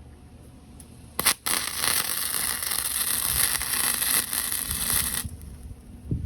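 Gasless flux-core MIG welder arc: a brief strike about a second in, a short break, then about four seconds of steady sizzling arc that stops abruptly when the trigger is released.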